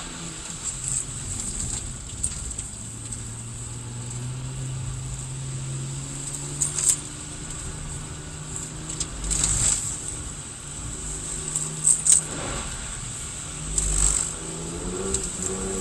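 Car engine heard from inside the cabin on a lap of a wet track, its note changing as the car slows for a corner and speeds up again. Several short sharp knocks or rattles are heard along the way.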